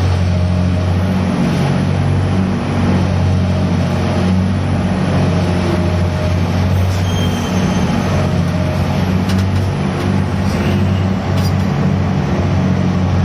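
Steady drone of a gut ship's grab-crane machinery and diesel engine running during grab cargo handling, with a few faint clicks in the second half.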